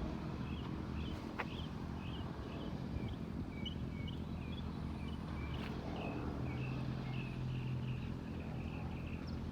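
Small birds chirping in a quick, irregular series of short high notes, over a steady low engine rumble.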